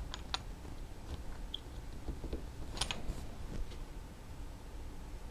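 A few light, sharp clicks and taps of small metal parts being handled while a brake lever is refitted to a motorcycle master cylinder, the loudest cluster about three seconds in.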